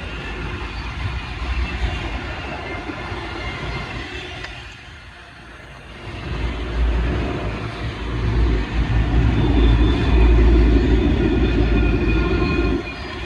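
Freight train passing, its wheels rumbling on the rails with a steady hiss and faint high ringing. It grows louder about halfway through, then drops off suddenly near the end.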